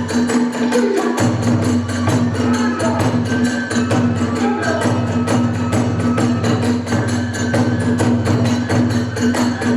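Kagura hayashi accompaniment playing a fast, driving rhythm: rapid drum strokes and clashing hand cymbals, with a bamboo flute playing short held notes over them.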